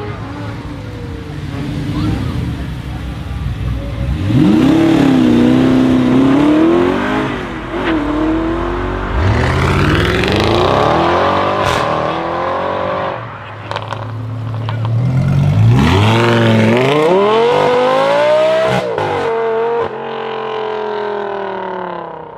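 Sports car engine revving hard and accelerating, its pitch climbing through the gears and dropping at each shift, in several pulls, then easing off near the end.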